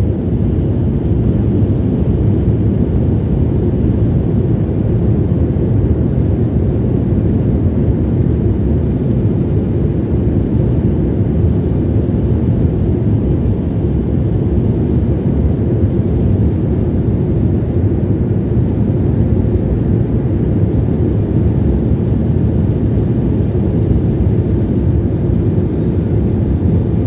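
Steady airliner cabin noise: the engines and rushing air heard from inside the passenger cabin as a low, even drone with no change in level.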